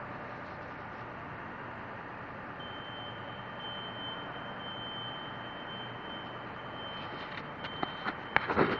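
Steady aircraft engine noise as the plane is pushed back, with a thin high whine coming in about two and a half seconds in. A cluster of sharp knocks near the end is the loudest part.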